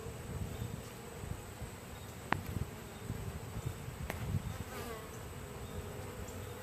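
Honey bees buzzing steadily around an open hive, a continuous hum, with two short clicks, about two seconds and about four seconds in.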